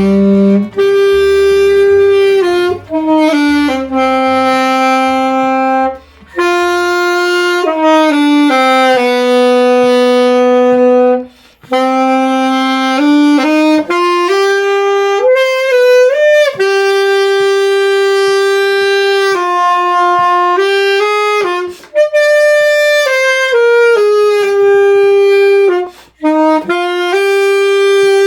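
Saxophone playing a slow melody solo, long held notes in phrases separated by brief breaths.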